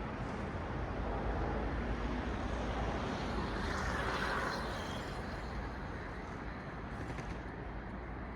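A car passing on the road, its tyre and engine noise swelling to a peak about four seconds in and fading away, over a steady hum of traffic.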